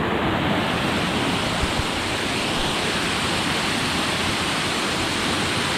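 Steady rushing of a tall cascading mountain waterfall, an even wash of falling water with no break or change in level.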